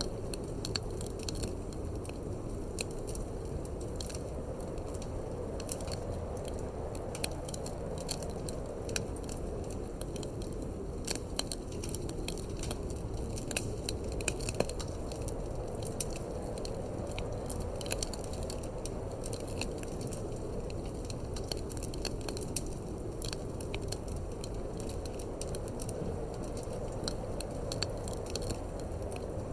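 Wood fire crackling in a fireplace, with frequent sharp pops and snaps at irregular intervals over a steady low rush of wind.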